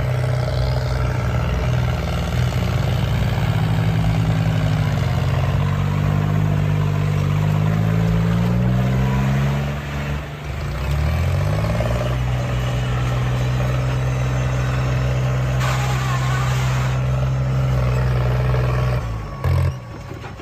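Tractor engine running under throttle: its pitch climbs over several seconds, dips briefly about halfway, then climbs back and holds steady before dropping off near the end. A short rushing noise comes through about three quarters of the way in.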